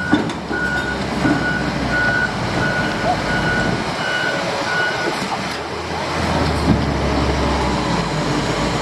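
Reversing alarm on heavy construction machinery, beeping evenly about twice a second and stopping about five seconds in, over the low rumble of a heavy engine.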